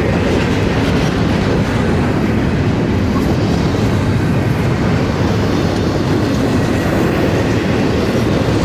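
A train rolling on the rails, a loud, steady rumble of wheels and cars that holds level throughout.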